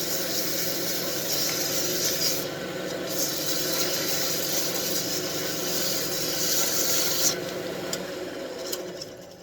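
Wood lathe running with a tool rubbing against the spinning wooden wand blank: a steady scraping hiss over the lathe's hum. Near the end the hum stops and the sound dies away as the lathe is shut off.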